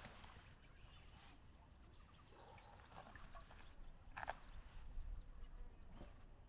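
Quiet mountain outdoor ambience: a few soft knocks and rustles, the clearest about four seconds in, over faint high bird chirps and a steady hiss.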